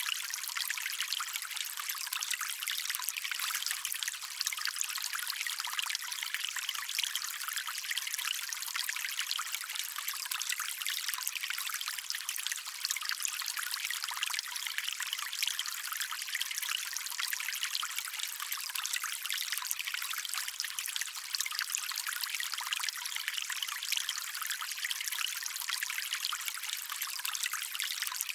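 Shallow stream water running and trickling steadily, a bright splashing hiss with little low rumble.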